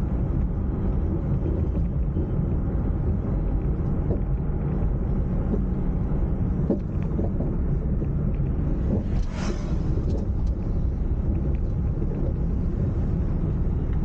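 Car on the move: a steady low rumble of engine and road noise, with a brief rushing hiss about nine seconds in.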